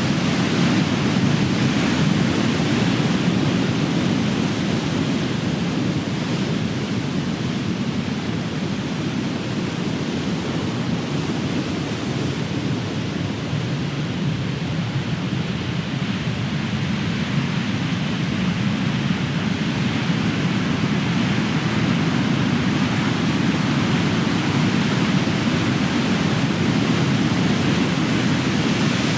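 Big ocean waves breaking and rushing on the shore: a continuous deep roar of surf that eases slightly midway and builds again toward the end.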